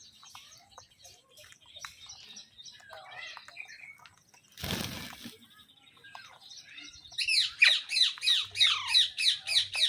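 Rose-ringed parakeet chattering softly, then after a brief rustling burst about halfway, breaking into a fast run of loud shrill screeches, about four or five a second, near the end.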